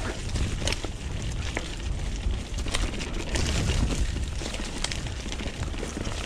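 Mountain bike riding a dirt trail: tyres running over loose dirt and stones, with frequent knocks and rattles from the bike over bumps and a steady low rumble of wind on the microphone.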